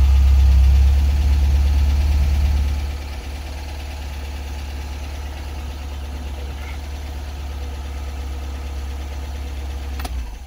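Warm MGB GT engine running, louder for the first few seconds and then settling to a steady, quieter idle about three seconds in. A short click near the end.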